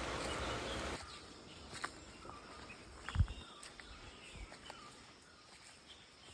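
Faint forest ambience with a few soft bird calls, and one dull thump about three seconds in.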